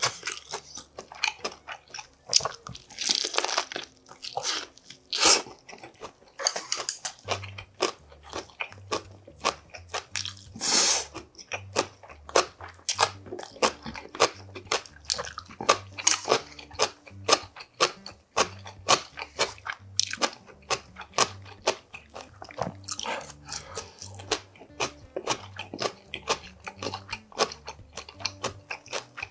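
Close-miked chewing and biting of gimbap (seaweed-wrapped rice rolls) and spicy noodles, with wet mouth clicks and crunches coming thick and fast. Faint background music with a bass line comes in about seven seconds in.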